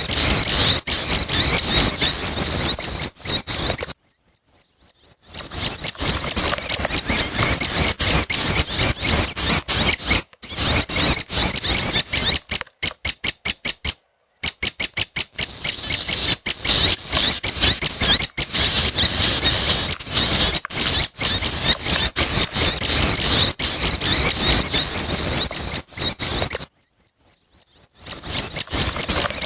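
Prenjak (prinia) chicks calling: a dense, continuous, high-pitched squeaky chatter. It breaks off twice, about four seconds in and near the end, and turns into a run of rapid, evenly spaced pulses around the middle.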